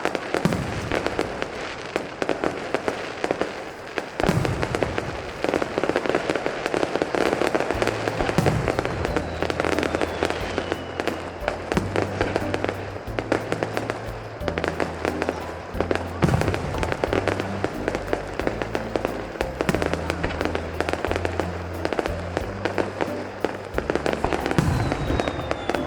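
Fireworks bursting and crackling continuously, with a thin falling whistle near the start and again near the end. Show music with a steady bass line joins about eight seconds in.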